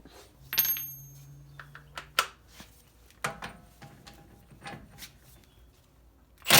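Scattered metallic clinks and knocks of hand tools and parts during drive-axle work on a car's front wheel, the loudest a ringing metal clink about half a second in. A low steady hum runs under the first two seconds.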